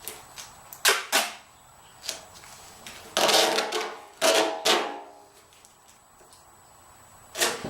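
Sheet-metal VW fuel tank being tipped and rolled to spread leak sealer inside: a few sharp knocks and clanks of the metal tank, with a longer scraping, rubbing stretch from about three to five seconds in, briefly ringing.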